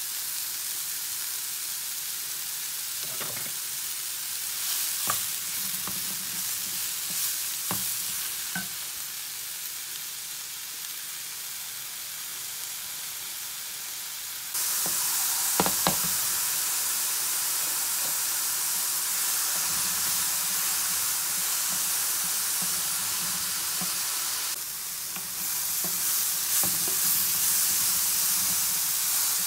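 Sliced button mushrooms sizzling in a frying pan on high heat, stirred with a wooden spoon that knocks and scrapes against the pan now and then. The sizzle steps up louder about halfway through.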